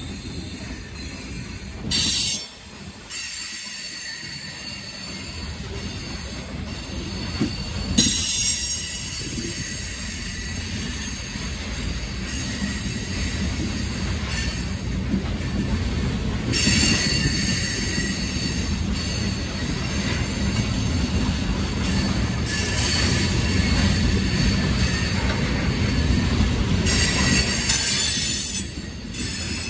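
Loaded coal train of aluminium coal cars rolling past with a steady low rumble of wheels on rail. High wheel squeal rises and fades several times, and is loudest and longest near the end.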